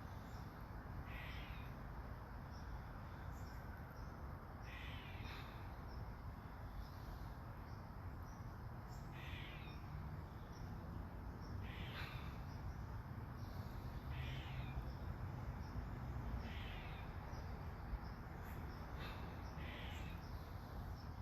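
A bird giving short calls over and over, about eight in all, a couple of seconds apart, over the steady hiss of soft rain.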